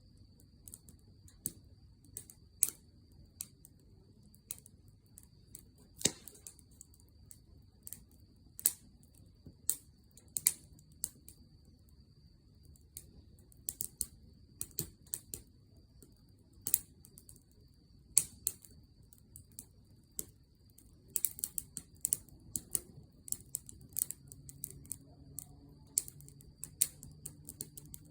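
Wood fire crackling, with irregular sharp pops that come more often in the last several seconds.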